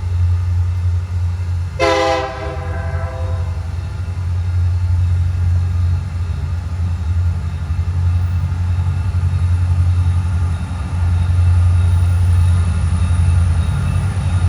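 Diesel locomotive passing with a steady low engine rumble that grows louder about 11 seconds in, and one short horn blast about 2 seconds in.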